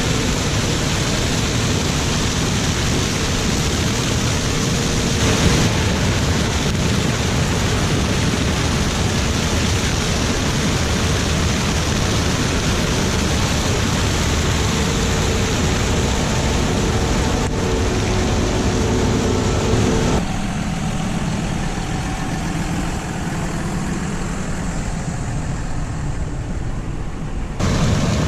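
Heavy harvest machinery running steadily, a combine harvester or tractor engine with a dense hiss. The sound changes abruptly about five, twenty and twenty-seven seconds in, and is duller between twenty and twenty-seven seconds.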